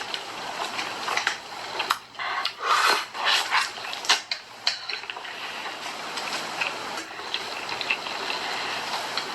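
Close-miked mukbang eating sounds: a dense run of crackly clicks and short crunches from chewing snack food, busiest a couple of seconds in.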